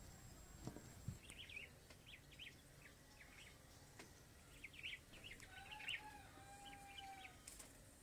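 Faint chirping of small birds: many short high calls, scattered and repeated, with a longer steady call about six seconds in.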